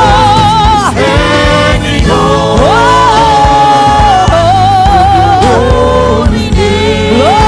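Live gospel worship music: long sung notes with vibrato, sliding up into each note, over a band with bass and drums.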